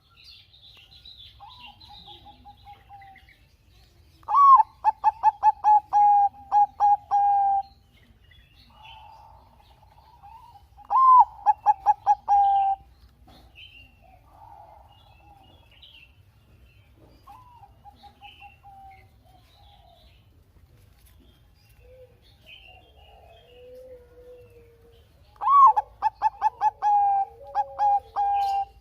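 Zebra dove (perkutut) singing in three loud bouts. Each bout opens with a rising note, runs into a quick string of clipped notes and ends on a held coo. Between the bouts there are softer coos and faint high chirps of other birds.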